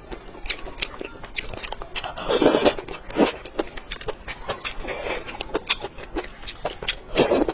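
Close-miked eating sounds: a person biting and chewing food, with a run of short wet clicks and smacks. There are louder, longer mouthfuls about two and a half seconds in and again near the end.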